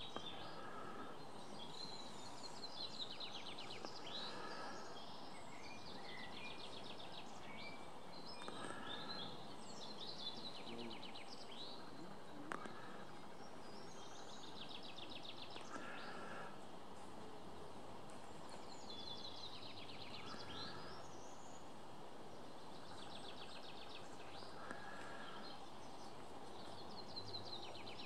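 Songbirds singing outdoors: rapid trilled phrases repeat every few seconds over a steady background hiss, and a shorter, lower call recurs about every four to five seconds.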